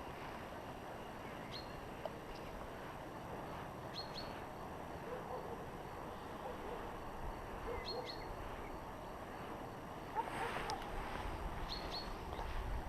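A bird giving short, high chirps, often doubled, every few seconds over steady outdoor background noise, with some louder noise near the end.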